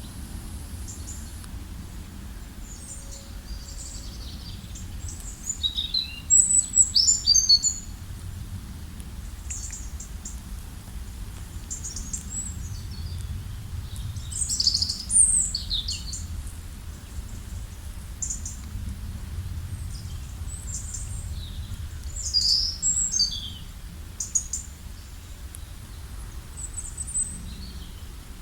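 Songbirds chirping in scattered bursts of quick, high calls, loudest about a third and half way through, over a steady low background rumble.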